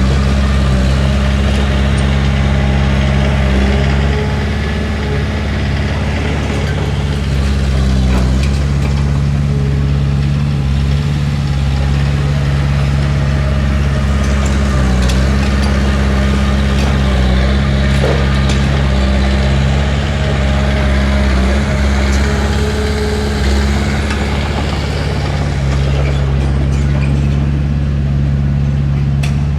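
Komatsu D31P bulldozer's diesel engine running steadily, with a few faint clicks over it.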